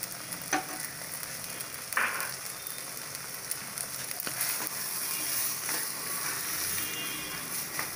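Thick chicken gravy sizzling in a pan as a steady hiss, with a few spoon clicks and a short scrape about two seconds in.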